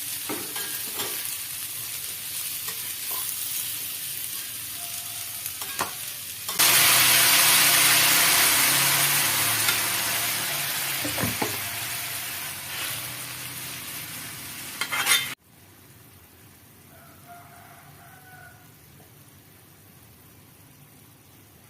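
Food frying in a pan, sizzling steadily with the knock and scrape of stirring. About a third of the way in the sizzle jumps suddenly much louder, as if fresh food has gone into hot oil. It fades slowly, then cuts off abruptly to a faint, steady hiss of rain.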